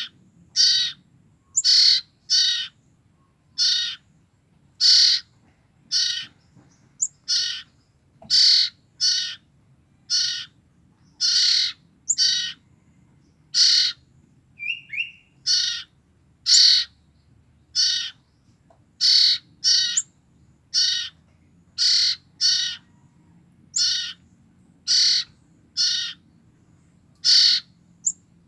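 Two young common ioras (cipoh), about two weeks old, calling over and over: short, harsh, hissy calls roughly once a second, the kind of calls used to lure in the parent birds.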